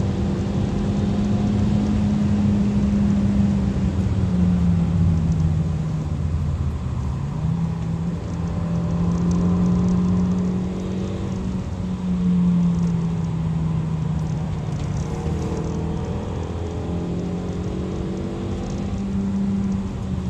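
Kia cee'd GT's turbocharged four-cylinder engine pulling hard, heard inside the cabin, its note holding, dropping and climbing again several times as the revs change, over steady road noise.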